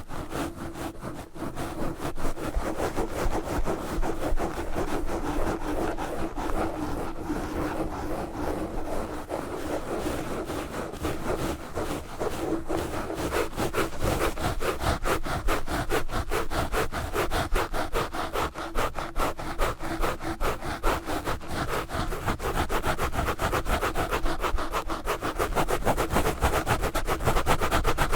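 Knitted yarn gloves scratching fast and hard on a Blue Yeti microphone: dense, rapid rubbing strokes right on the mic, a little louder in the second half.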